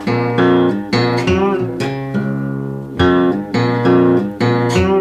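Delta blues guitar played alone, plucked notes ringing over a repeated low bass note, with a bent note about a second in.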